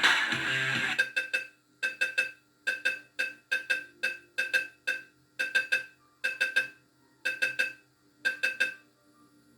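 JPM System 5 fruit machine's sampled sounds playing through a speaker: a snatch of music ends about a second in, then a short three-note chime repeats about once a second until near the end. The owner puts its rough tone down to a poor speaker connection rather than the board.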